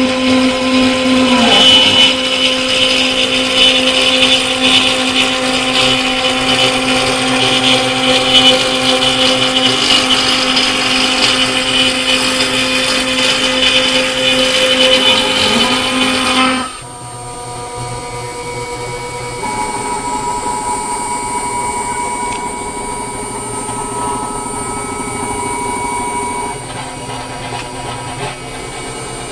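WALTER 6545 CNC machine milling an acrylic plate: a loud, steady spindle whine with a cutting hiss. A little over halfway through the loud cutting sound cuts off abruptly, leaving a quieter steady machine hum that changes tone twice.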